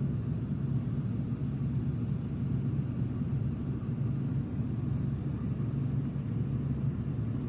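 Steady low engine rumble of a ship under way, an even drone with no change in pitch or level.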